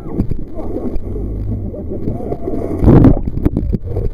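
Jet boat engine running with a steady low drone, voices faintly underneath, and a brief loud rushing burst about three seconds in.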